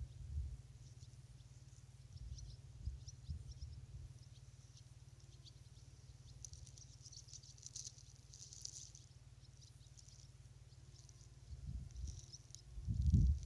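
Outdoor rural ambience: a low, gusty rumble with faint high chirps scattered through it, busiest a little past halfway. The rumble swells loudest near the end.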